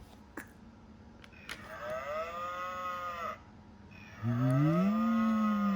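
Two long cow-like moos; the second one rises in pitch and then holds.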